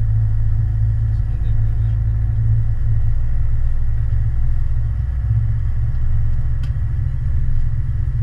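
Steady, loud low engine rumble holding an even pitch, with a faint hum of higher tones above it.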